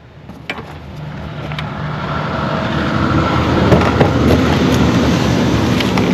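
A motor vehicle engine running with a steady low hum, growing louder over the first few seconds and then holding steady, with a few faint clicks.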